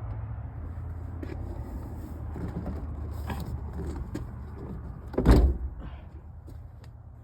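A few light clicks and then a loud clunk about five seconds in, from parts being handled in a truck door, over a steady low hum.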